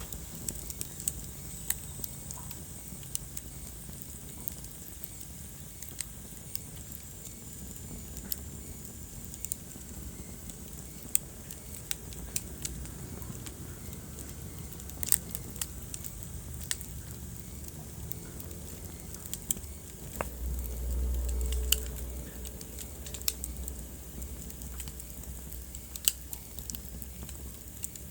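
Wood fire crackling in a fireplace: irregular sharp pops and snaps over a low steady rumble of the flames. About two-thirds of the way through, the low rumble swells louder for a couple of seconds.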